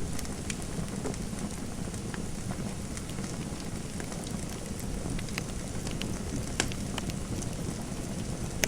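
Wood fire crackling in a fireplace: a steady low rush of burning with scattered sharp pops and snaps, a louder pop about two-thirds of the way in.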